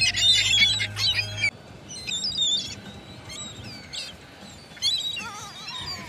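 Several gulls calling over one another, loud for the first second and a half, then suddenly fainter with scattered calls and a wavering call near the end.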